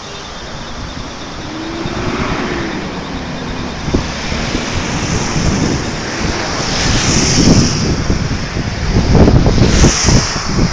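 Heavy rainstorm: a steady rush of rain and wind. Wind buffets the microphone, growing stronger in the last few seconds.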